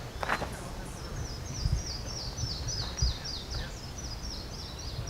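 A songbird singing a long run of quick, falling high notes, about five a second, over a steady low rumble, with two dull thumps, one just under two seconds in and one about three seconds in.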